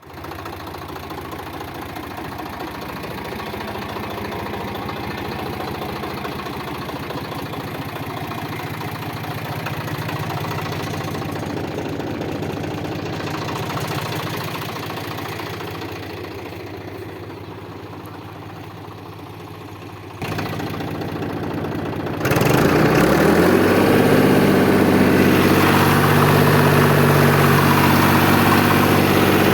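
Deutz-Fahr Agrolux 50 hp tractor's diesel engine running steadily at idle. About two-thirds of the way through it suddenly gets louder in two steps, then runs on steadily.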